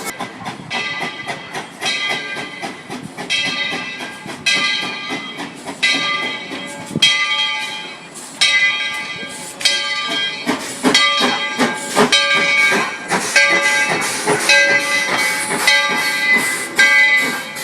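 Narrow-gauge steam locomotive working, its exhaust coming in rhythmic chuffs about once a second at first and quickening to two or three a second about ten seconds in, as the engine picks up speed.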